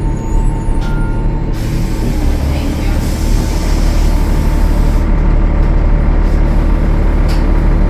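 The Cummins ISL9 diesel engine of a 2013 Gillig Low Floor transit bus running with a steady low rumble. A loud hiss comes in about a second and a half in and dies away about five seconds in.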